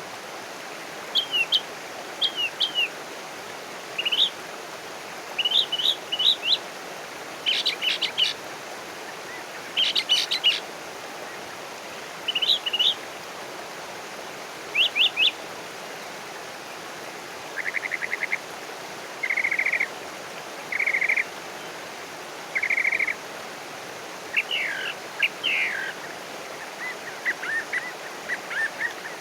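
Wild birds chirping: short, sharp chirps with quick downward-sweeping notes, repeated every second or two. A little past halfway, four short buzzy trills come in, one about every second and a half. A steady background hiss runs underneath.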